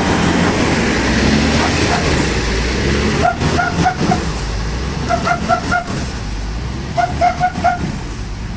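Scania P360 truck's diesel engine running under load, a steady low rumble. From about three seconds in it is joined by quick runs of four or five short high beeps or calls, repeating every couple of seconds.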